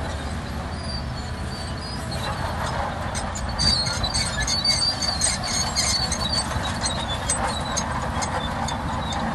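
Shantui DH17C2 crawler bulldozer working, its diesel engine running steadily under high squeals and irregular clanks from the steel tracks. The squealing and clanking get busier about three seconds in.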